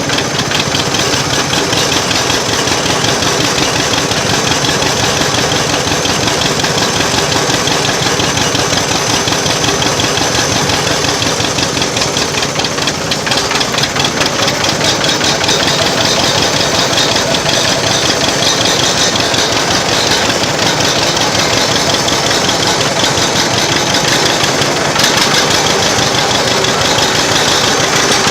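Old tractor engine running steadily at a low, even speed, its firing pulses coming quickly and regularly.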